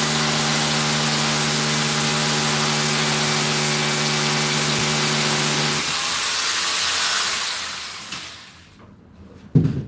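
Electric drill running steadily at one pitch, boring into the wall for several seconds, then stopping and spinning down. A single sharp knock comes near the end.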